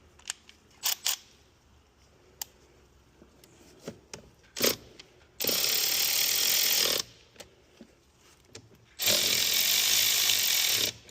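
A few light clicks and knocks, then a cordless power tool runs in two steady bursts of about one and a half to two seconds each, with a short pause between them.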